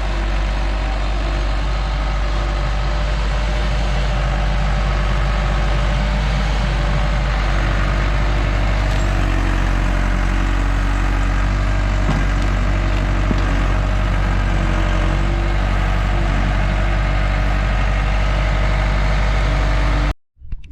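Engine of a piece of heavy equipment running steadily with an even low hum, cutting off abruptly near the end.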